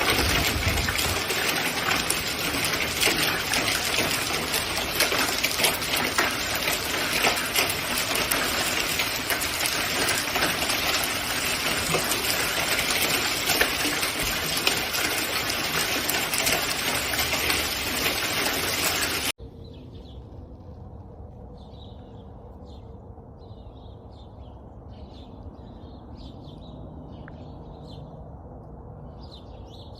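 Dense, steady pelting of a hailstorm, a constant rattle of many small hits. About two-thirds of the way through it cuts off suddenly to a quiet scene where small birds chirp.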